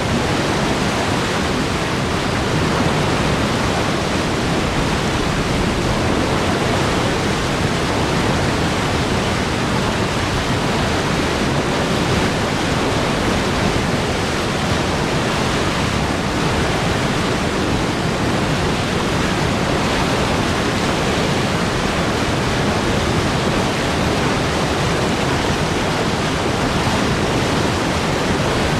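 A powerful flow of water rushing steadily and loudly, an even, unbroken rush with no change throughout.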